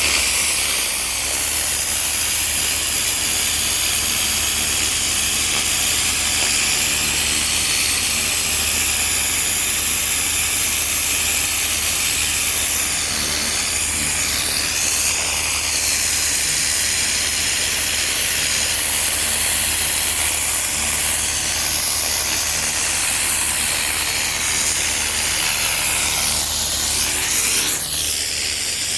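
Pressure washer jetting water onto patio slabs: a steady hiss of spray with a low hum beneath it.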